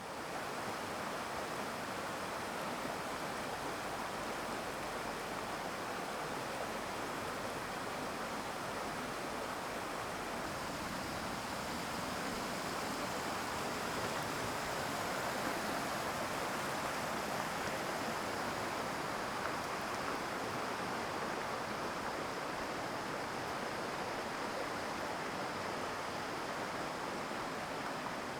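Mountain stream water rushing steadily, an even noise with no let-up.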